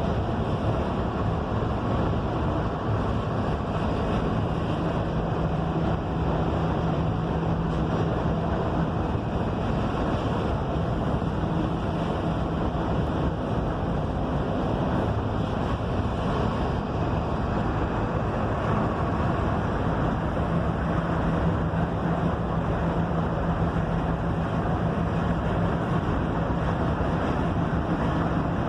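Cabin noise inside a moving Mercedes-Benz OF-1721 city bus with a Marcopolo Torino S body: steady road and wind noise over the drone of its front-mounted diesel engine. A low engine hum stands out about four seconds in and again from about twenty seconds on.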